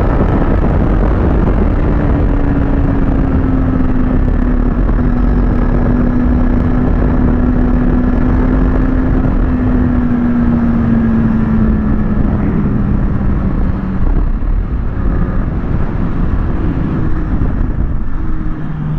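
Kawasaki ZX-6R sportbike's inline-four engine running under way, with heavy wind rumble on the camera microphone. The engine note falls slowly in pitch over about ten seconds, then changes again near the end.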